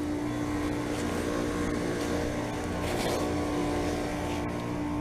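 Outdoor heat pump units running in heating mode: a steady compressor hum with one strong steady tone over a low drone and fan noise.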